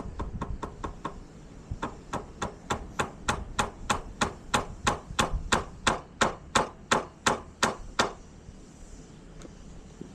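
Hammer driving nails: a few light quick taps to start, then a steady run of about twenty harder blows, roughly three a second, which stop about eight seconds in.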